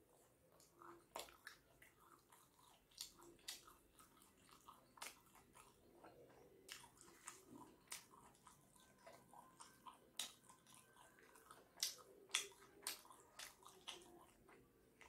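A person chewing a mouthful of chicken momo close to the microphone: a string of short, irregular mouth clicks and chewing noises, a few louder ones in the second half.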